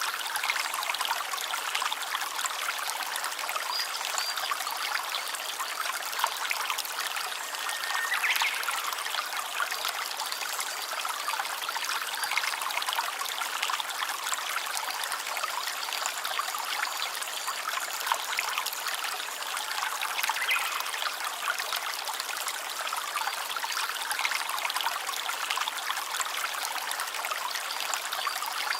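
Small stream trickling and splashing steadily.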